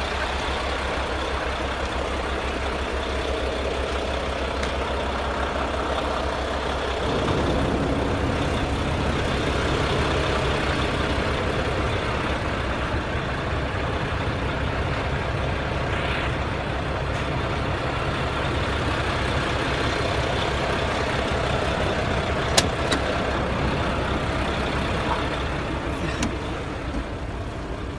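Truck engine running steadily, getting a little louder and heavier about seven seconds in, with one sharp click near the end.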